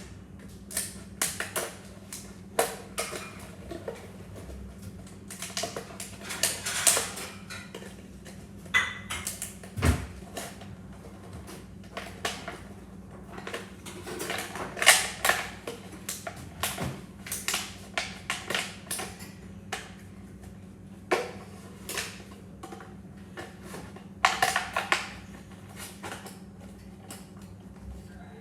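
Irregular clicks, taps and clatters of small hard objects being handled and set down, over a steady low hum.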